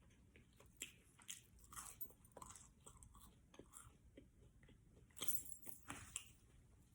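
A person chewing food close to the microphone: faint, with scattered small crunches and clicks, and a louder run of chewing about five seconds in.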